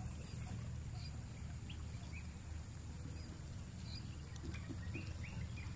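Outdoor riverside ambience: scattered short bird chirps over a steady low rumble.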